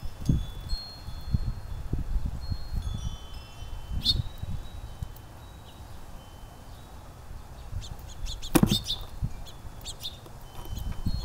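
Wind chimes tinkling with scattered ringing tones while gusts of wind rumble on the microphone. A sharp clatter about eight and a half seconds in is the loudest moment, with a smaller one around four seconds.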